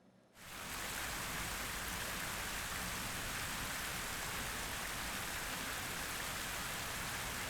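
Steady, even hiss like heavy rain, cutting in abruptly about half a second in after near silence.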